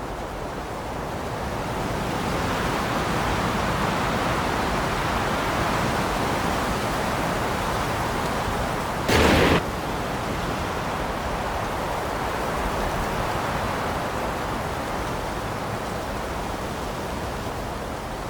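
Steady rushing noise of flowing water, swelling after the first couple of seconds, with a brief louder burst of noise about nine seconds in.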